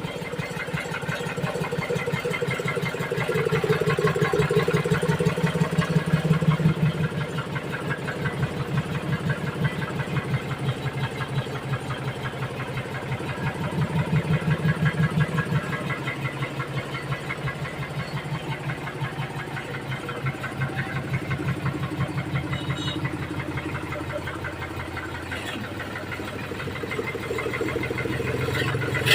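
Tractor diesel engine running as the tractor is driven, its engine speed rising and falling twice.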